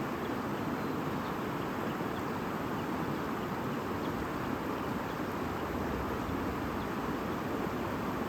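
Stream babbling steadily, a continuous rush of running water.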